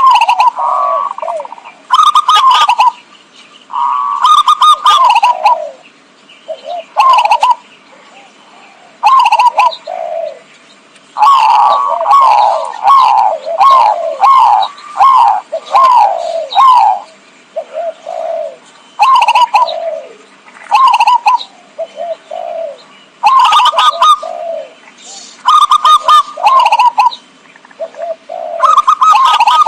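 Zebra dove (perkutut) cooing: short bursts of quick, falling coo notes repeated every second or two, with a longer unbroken run of coos around the middle.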